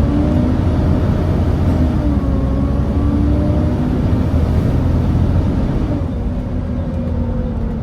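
Volvo B7TL double-decker bus with a Volvo D7C diesel engine, running on the move and heard from inside, a steady drone with a whine on top. The whine and the engine note ease slightly lower near the end.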